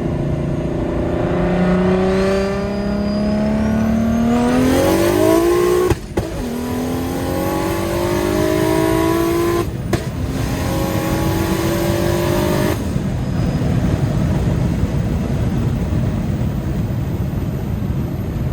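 BMW 335i's N54 3.0-litre inline-six, converted to a DocRace single turbo, accelerating hard through the gears, heard from inside the cabin: the engine note climbs, breaks briefly for gear changes about six and ten seconds in, and climbs again, with a rising turbo whistle during the first pull. About thirteen seconds in it lifts off and settles into a steady cruise drone with road noise.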